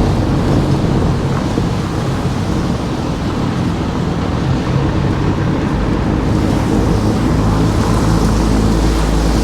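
Car driving along a street: steady engine and road noise with a low rumble that grows deeper and stronger about six seconds in.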